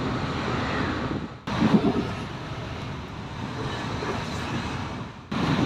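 Rumble and clatter of a train running on the rails, heard from aboard, while passing other trains. The sound cuts off abruptly twice, about one and a half seconds in and near the end.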